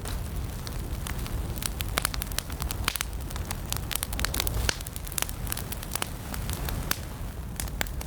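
Wood fire burning in a fireplace, crackling with many sharp irregular pops and snaps over a low, steady rumble of the flames.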